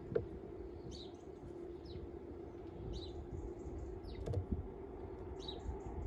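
Garden bird calling: short high call notes, mostly in pairs, about every two seconds. Under them, a faint steady hum and a couple of soft knocks of a blackbird pecking on the wooden bird table.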